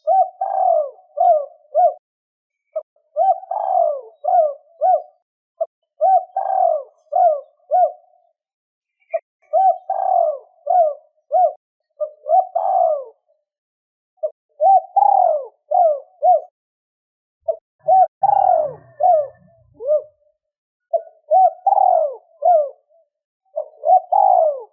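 Spotted dove (cu gáy) cooing over and over: phrases of several short coo notes, each phrase ending in quick trailing notes, repeated about every two and a half seconds, the kind of call used to lure wild doves.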